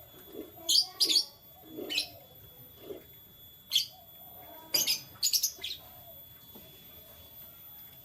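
Canaries giving short, sharp chirps, singly and in quick pairs and runs, at irregular intervals over the first six seconds, with softer lower sounds in between.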